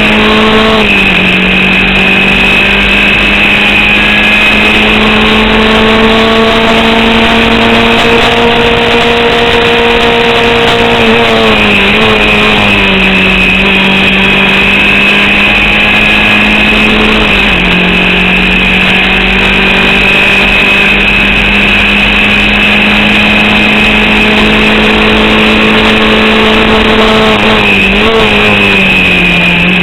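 Formula Vauxhall 8v single-seater's four-cylinder engine heard onboard at racing speed, held at a nearly steady pitch that drops a few times, near the start, about 12 and 17 seconds in and near the end. The engine is misfiring and losing power from an alternator/battery fault, as the driver reports for this race.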